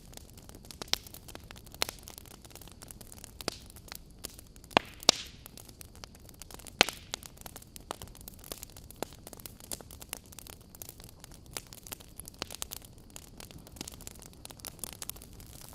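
Wood campfire crackling: irregular sharp pops and snaps of burning logs over a low steady rumble of the flames, with a short hiss about five seconds in.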